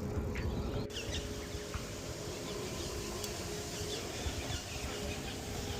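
Wind and rolling noise from a bike being ridden, with birds chirping throughout and a steady faint hum underneath.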